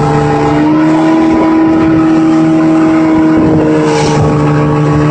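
Engine running steadily, its hum holding one pitch over a constant rush of noise.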